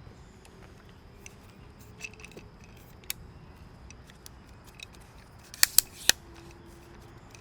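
Camera shutter clicking: a few scattered light clicks, then three sharp clicks in quick succession about five and a half seconds in.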